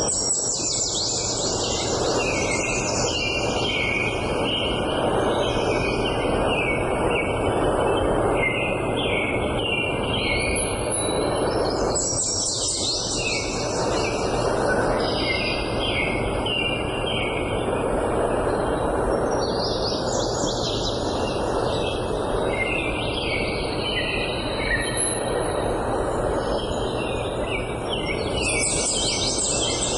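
Songbird singing: a phrase that opens with a high falling sweep and runs into a string of quick notes, repeated about every eight seconds, over a steady noisy rush.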